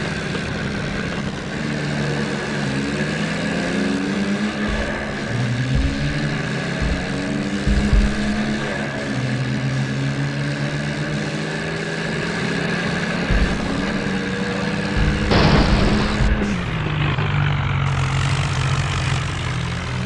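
Tractor diesel engines running hard under the heavy load of a tug-of-war pull, their pitch stepping up and down. A short burst of noise about fifteen seconds in.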